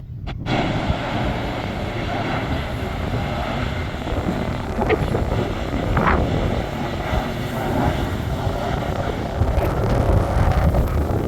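Airliner landing close by: a loud, steady rush of engine noise that comes in sharply about half a second in and holds.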